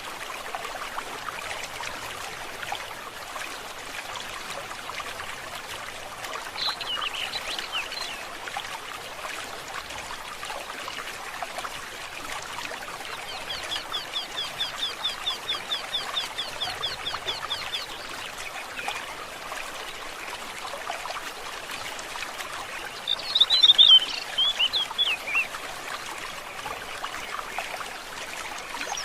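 Stream water trickling steadily, with birds calling over it: a short call, then a rapid, evenly repeated trill of about five or six notes a second, and near the end the loudest sound, a burst of quick chirps.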